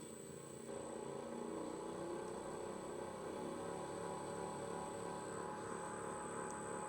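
Bucktool 8-inch, 1 HP variable-speed bench grinder running with its wheels spinning freely: a very quiet, steady motor hum that gets a little louder over the first second or two.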